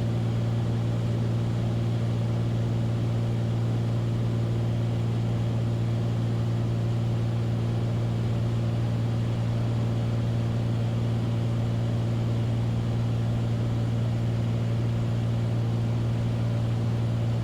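Beechcraft Bonanza's piston engine and propeller in flight, a steady, unchanging low drone.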